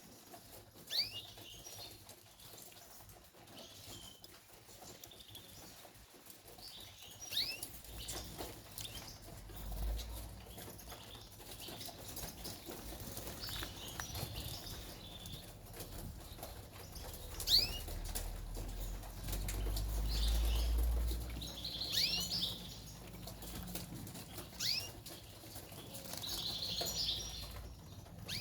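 Domestic canaries giving short, high chirping calls every second or two, with bursts of wing fluttering. A low rumble comes in twice.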